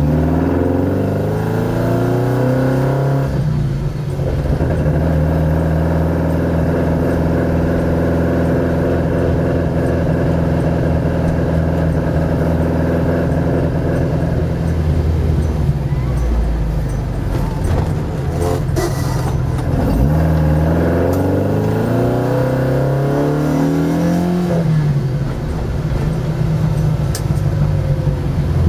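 1975 Hillman Avenger's four-cylinder engine pulling through the gears. The revs climb and drop at a gear change a few seconds in, then hold steady while cruising, ease off, and climb again to another gear change near the end.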